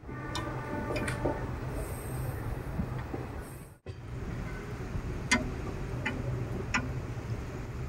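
Passenger train running, heard from inside the coach: a steady low rumble with a few sharp clicks from the wheels over rail joints, and a brief high tone near the start. The sound drops out for an instant about four seconds in.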